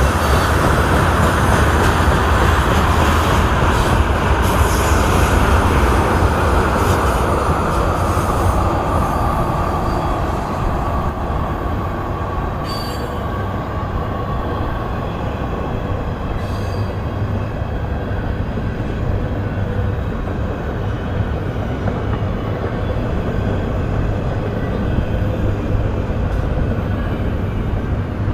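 Union Pacific freight train rolling past, with the steady rumble and rush of wheels on rail. A higher band of noise eases down in pitch and fades over the first ten seconds, leaving the lower rolling rumble.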